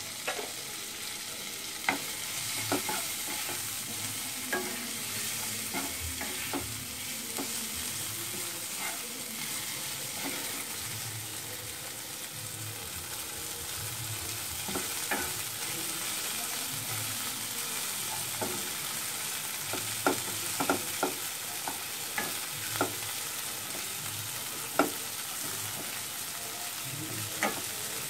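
Chopped onion, garlic, tomato, green chilli and ginger frying in oil in a pan, with a steady sizzle. The mixture is being stirred, and the utensil clicks sharply against the pan every few seconds.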